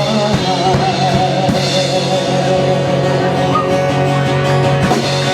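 Live rock band playing: sustained guitar chords over a drum kit with many drum and cymbal hits, and a wavering held sung note in the first second or so.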